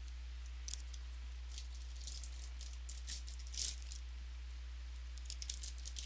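Trading cards being flipped through by hand: scattered light slides and flicks of card stock, the loudest a little past halfway, over a steady low electrical hum.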